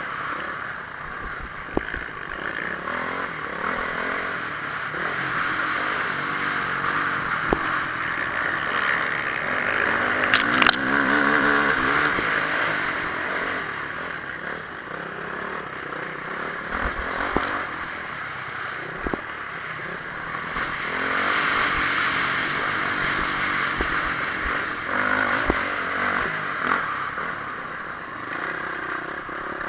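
Honda CRF450R motocross bike's single-cylinder four-stroke engine running hard, its pitch rising and falling with the throttle as it rides. It is loudest about eleven seconds in and again around twenty-one seconds, with scattered knocks and clatter.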